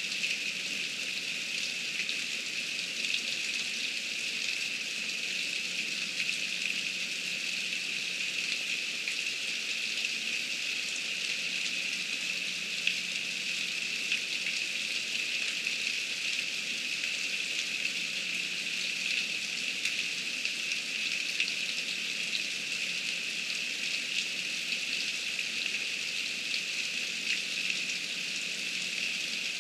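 Heavy rain falling steadily: a dense, even hiss of drops with scattered sharper drop hits.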